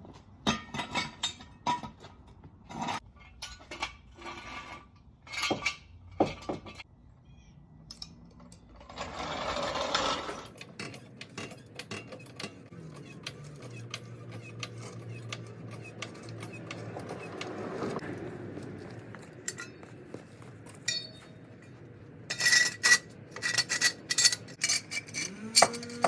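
Repeated sharp metal clinks and knocks of tools and a floor jack being handled under a car, in two clusters with a short scraping swell and a quieter spell between them.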